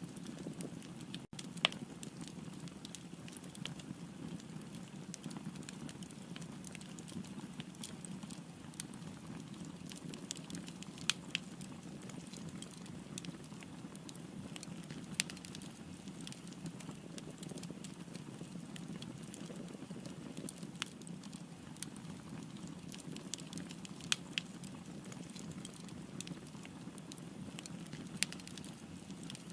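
Wood fire burning: a steady low rustle of flames with scattered sharp crackles and pops from the burning wood, a few of them louder.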